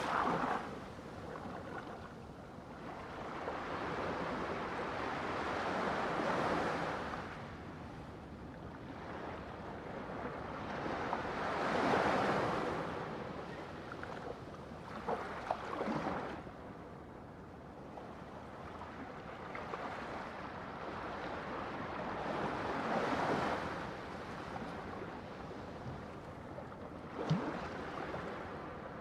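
Ocean waves breaking and washing ashore, a swell of surf every few seconds, with a few short splashes or clicks, one of them near the end.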